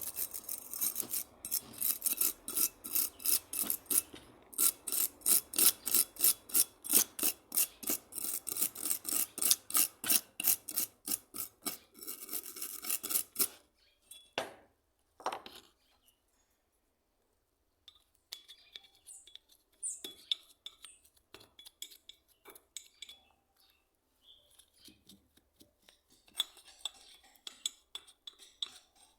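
Rhythmic back-and-forth scraping strokes, about two a second, as a part of a hand plane is worked by hand with an abrasive or file; the strokes stop about halfway through, leaving scattered light clinks and handling noises.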